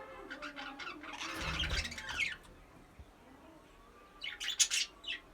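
Budgerigars chattering and squawking, with a loud, noisy stretch about a second in, then a run of sharp high chirps near the end.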